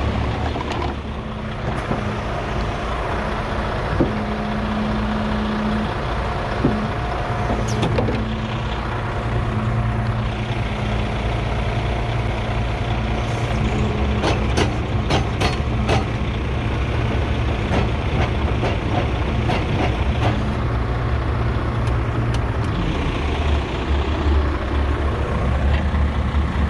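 Heavy diesel truck engine running steadily, with a run of sharp clicks about halfway through.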